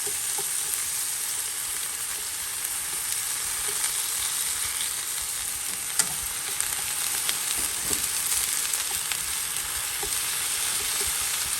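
Food frying in oil in a pan: a steady sizzle, with a few sharp clicks, the loudest about six seconds in.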